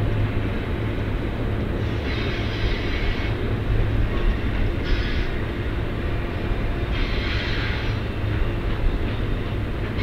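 BNSF freight train rolling past with a steady low rumble of wheels and cars. A brief higher hiss rises and fades about every two seconds.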